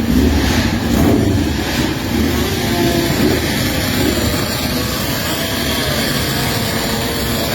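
Motorcycle engines running and being revved, their pitch rising and falling over a busy background of engine noise.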